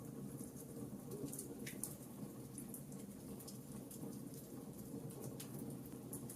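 Fireplace fire crackling: scattered light pops and snaps, several a second, over a steady low background of the burning fire.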